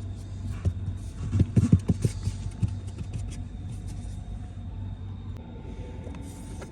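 Light knocks and handling noises from work on the dashboard's plastic trim and foam tape, bunched between one and three seconds in, over a steady low hum.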